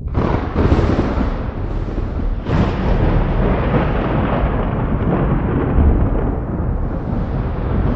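Thunder: a sudden crack that rolls into a long, loud, crackling rumble, with a second crack about two and a half seconds in.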